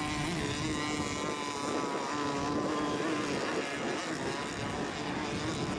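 Radio-controlled racing boats running laps, their small engines giving a steady buzzing whine that wavers slightly in pitch.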